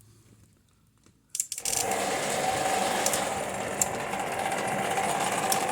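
1932 scratch-built K4 model steam locomotive, driven by an electric universal motor on DC, starts up about a second and a half in and runs along the track. It makes a steady mechanical whirr and gear rattle with a held whine.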